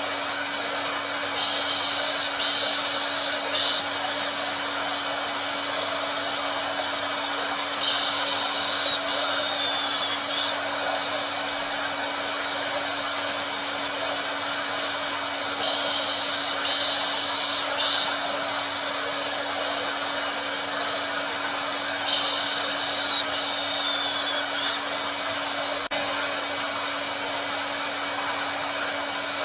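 Hair dryer running steadily: a constant rush of air over a low motor hum, with a brighter, louder hiss swelling in for a second or two about every six to seven seconds.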